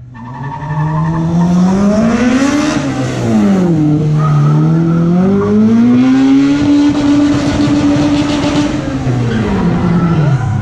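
Car engine on an autocross cone course revving hard, its pitch climbing, dropping back at a shift about three seconds in, climbing again and holding, then falling near the end.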